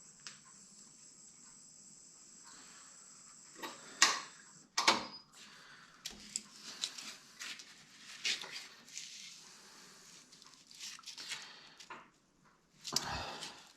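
Knocks, clicks and clatter of a wood blank and tools being handled at a wood lathe, with two sharp knocks about four and five seconds in and a longer clatter near the end. A faint steady high whine sounds over the first few seconds.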